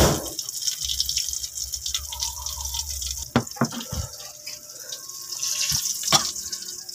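Eggplant omelette frying in hot oil in a wok, a steady sizzle and crackle. Several sharp knocks sound over it, loudest at the very start and about six seconds in.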